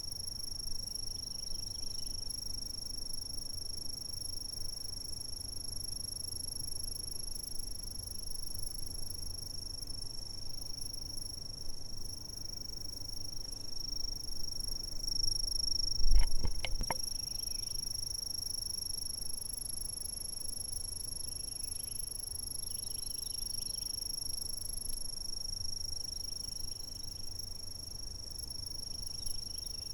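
Insects trilling without pause in one steady, high-pitched tone, with fainter chirps coming and going beneath it. About halfway through, a brief low thump with a few clicks stands out.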